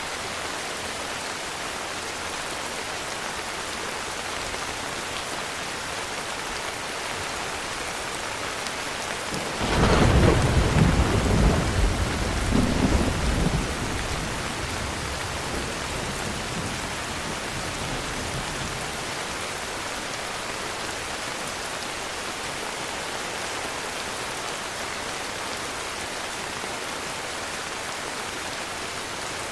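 Heavy rain falling steadily. About ten seconds in, a sudden peal of thunder breaks in, the loudest thing here, and rumbles for several seconds before fading back into the rain.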